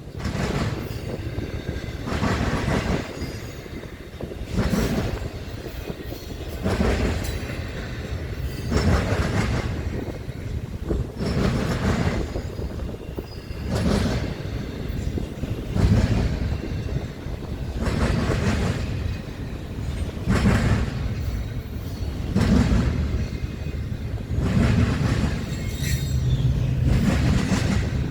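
CSX freight train cars rolling past, their wheels banging over rail joints in a repeating clack about every two seconds over a steady rolling rumble.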